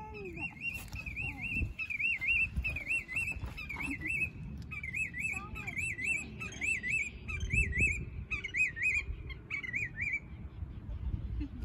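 A bird calling, a high wavering note repeated about twice a second, stopping shortly before the end.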